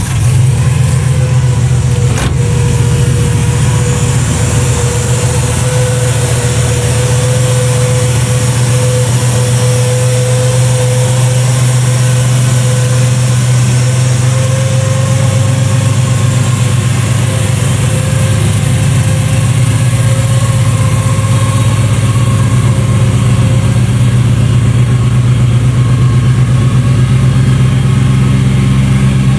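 1995 Mazda MX-5 Miata's 1.8-litre inline-four engine idling steadily, just after being started.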